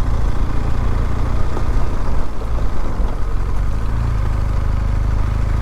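BMW R1200GS liquid-cooled boxer-twin engine running at low, steady revs while riding, with wind and road noise over it; the engine note shifts slightly about three seconds in.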